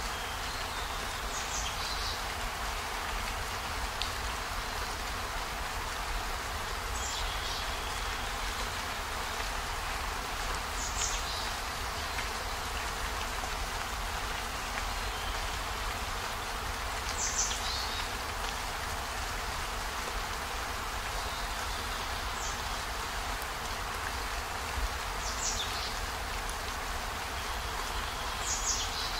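Steady rain falling, an even hiss of drops. Now and then, about seven times, a brief high chirp falls in pitch over it.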